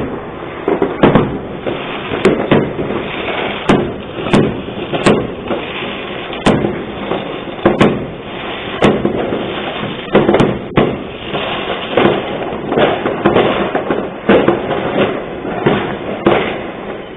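Firecrackers and fireworks going off nonstop: many sharp bangs at irregular intervals over a constant crackling din.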